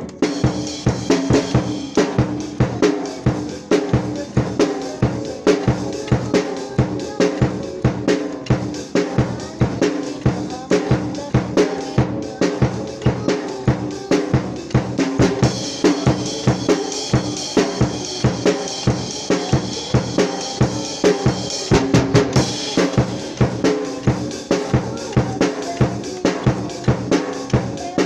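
A drum kit playing a steady beat, with snare and bass drum hits and a pitched instrument holding notes underneath. Cymbals wash in for several seconds in the middle.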